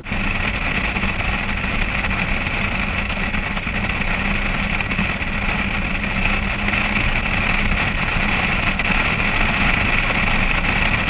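Steady vehicle engine noise, unchanging throughout, with a constant high hiss over it.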